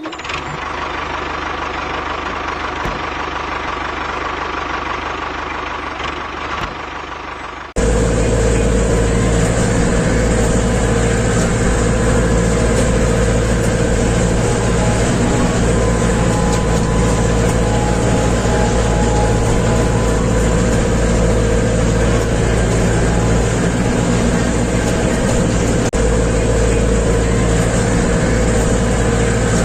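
A small motor running steadily with a constant hum. About eight seconds in, the sound cuts abruptly to a louder, fuller engine-like running that stays steady.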